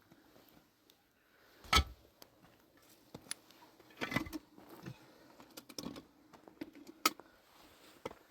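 Scattered knocks, clicks and rattles of things being handled, the loudest a sharp thump about two seconds in.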